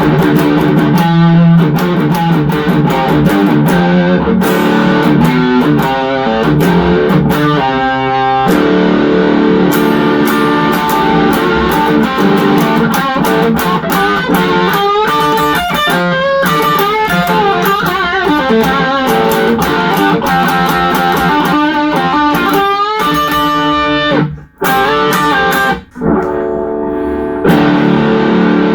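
Electric guitar played through an MXR Super Badass Distortion pedal: distorted riffs, chords and single-note lines. Near the end the playing stops twice briefly, then goes through a quieter stretch before coming back loud.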